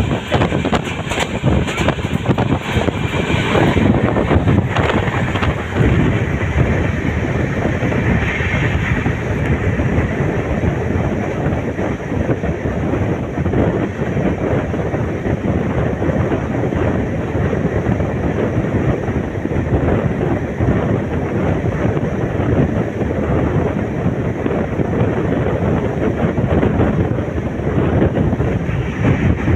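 Passenger express train running at full speed, its wheels rumbling on the track, heard from an open door with strong wind buffeting the microphone.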